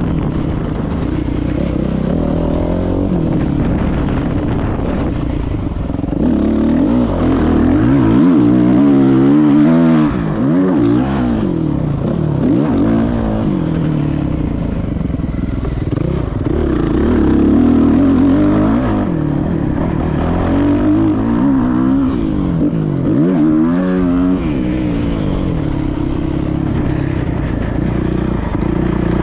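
Motocross dirt bike engine revving up and down as the bike is ridden around the track, heard from a camera on the rider's chest. The pitch climbs and drops again and again, with deep swoops about ten seconds in and again near the end.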